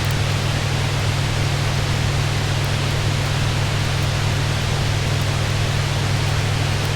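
Steady heavy rain on a roof, an even hiss over a constant low rumble, with a few faint high crackles from a fireplace.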